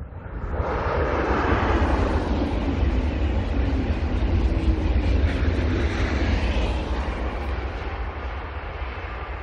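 KTX high-speed train passing at speed: a rushing sound of air and wheels on rail that swells about half a second in, stays loud for several seconds and then slowly fades as the train draws away.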